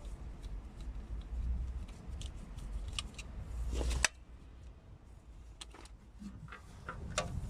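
Scattered metallic clicks and clinks of hand tools being handled during work on the car, over a low rumble that cuts off with a sharp click about four seconds in.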